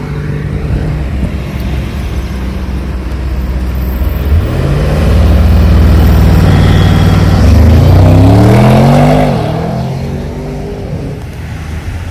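Sports car engine accelerating hard: its pitch climbs about four seconds in, drops back at a gear change, climbs again, and then falls away as the car leaves. It is loudest from about five to nine seconds in.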